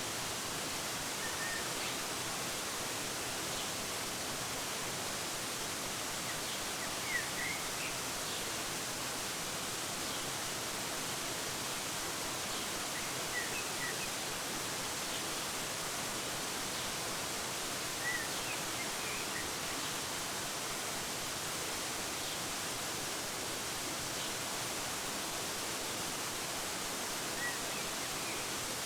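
Steady rushing of a waterfall, with a few short bird chirps scattered through, about a second and a half in, around seven, thirteen, eighteen and twenty-seven seconds.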